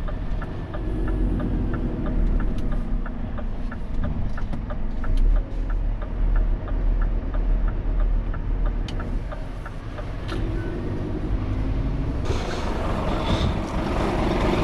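Scania truck cab with the engine running as a steady low drone and the turn-signal indicator ticking about three times a second, stopping about ten seconds in. Near the end a louder rushing noise comes in.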